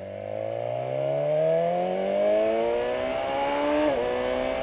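Motorcycle engine accelerating, its pitch rising steadily through one gear, then dipping sharply about four seconds in at an upshift.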